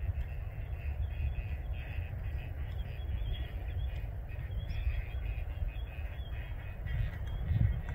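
Birds calling over and over in short repeated calls, over a steady low rumble of wind on the microphone that swells louder near the end.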